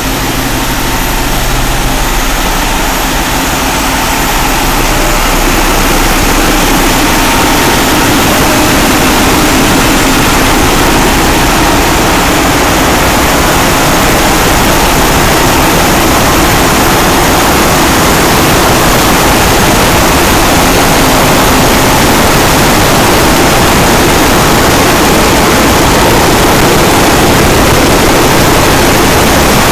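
A passenger ship's engine-room machinery running: loud, dense, steady noise that grows louder over the first few seconds and then holds.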